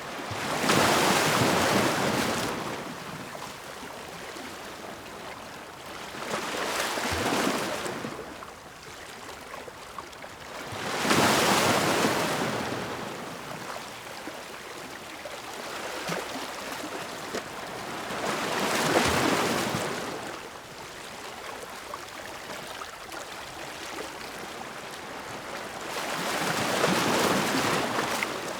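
Ocean waves breaking on the shore: five rushing surges, one about every six to eight seconds, each swelling and falling back over about two seconds, with a steady wash of surf between them.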